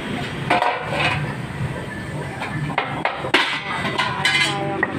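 Sheet-metal muffler parts clinking and knocking as they are handled and fitted, with one sharp knock a little after the middle. Voices and a low hum sit in the background.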